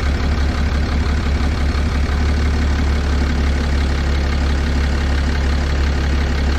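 6.7-litre Cummins inline-six turbo diesel idling during an injector kill test, with one injector cut out. The low engine drone pulses unevenly for about two seconds, then settles into a smooth, steady idle.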